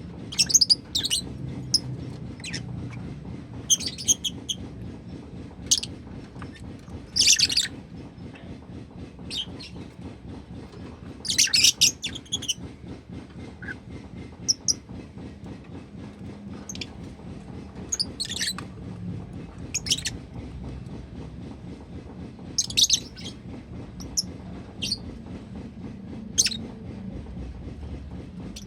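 Pet lovebird chirping in short, high, sharp calls at irregular intervals, the loudest about seven and twelve seconds in, over a steady low hum.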